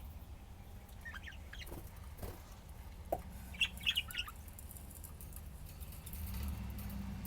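Pet budgerigars chirping in short, scattered calls, with a quick run of sharp chirps about three and a half to four seconds in, over a low steady hum.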